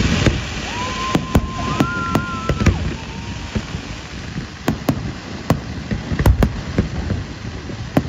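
Fireworks display: many sharp bangs of bursting shells over a continuous crackle. About a second in, a steady high whistle sounds for about two seconds, with a second, higher whistle overlapping it.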